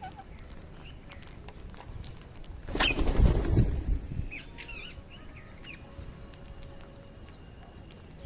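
Parakeets giving short chirps among light clicks and taps. About three seconds in there is a loud rush of noise lasting a second or so.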